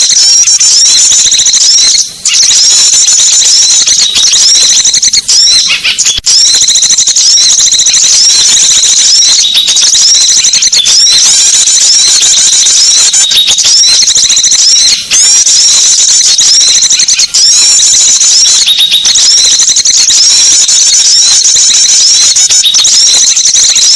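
Recorded bird-lure calls of small songbirds: dense, overlapping high-pitched chirps and trills repeating almost without pause. The sound breaks off briefly a few times.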